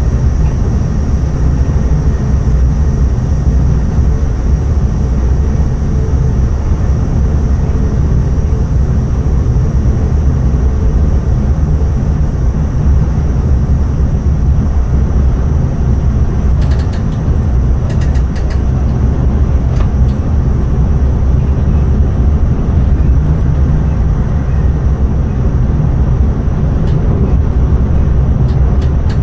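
Intercity train running at speed, heard from the driver's cab: a steady, loud low rumble of the train on the rails, with a few faint clicks about two-thirds of the way through and again near the end.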